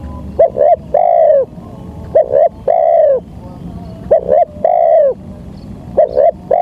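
Spotted dove (tekukur) cooing its song: a phrase of two short coos and then one longer, downward-bending coo, repeated four times about every two seconds.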